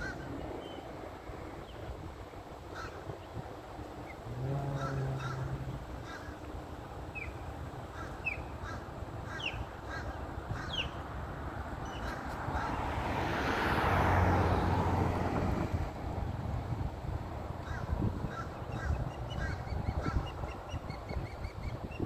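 Birds perched in a tree calling: scattered short calls all through, some sliding down in pitch. Around the middle a rushing noise swells and fades, the loudest sound here, and a brief low hum comes in about four and a half seconds in.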